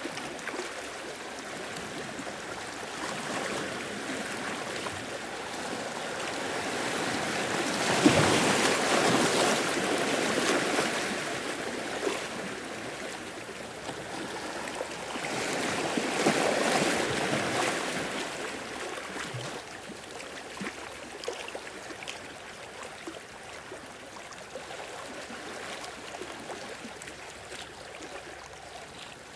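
Sea waves washing in, with two larger surges about eight and sixteen seconds in, then a quieter wash.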